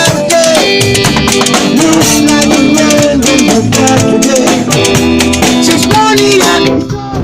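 A reggae band playing with singing over a steady beat, the sound dipping briefly near the end.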